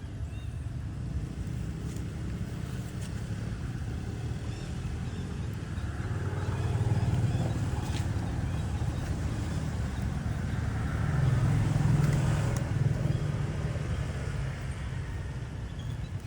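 Low, steady rumble of motor traffic, swelling twice as vehicles pass, about six and eleven seconds in.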